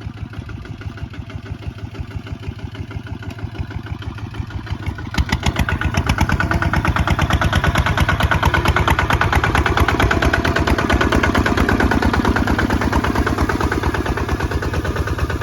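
Kubota ZT155 single-cylinder diesel engine running with an even, rapid thudding beat, getting louder about five seconds in as it is throttled up.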